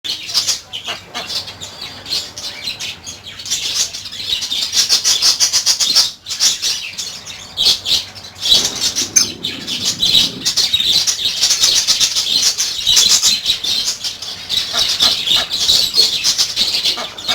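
Many small aviary birds, the farm's finches and lovebirds, chirping together in a dense, continuous chatter of quick high-pitched chirps.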